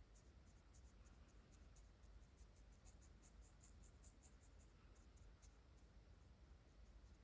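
Faint scratchy strokes of a water-based brush-tip marker on hot-press watercolour paper, many short strokes in quick succession.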